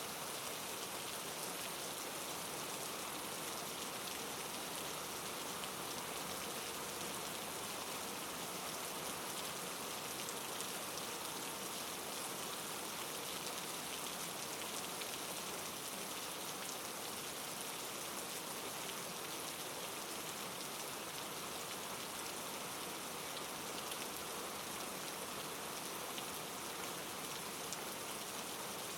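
Steady rain falling on a surface, an even hiss of many raindrops with no change in level.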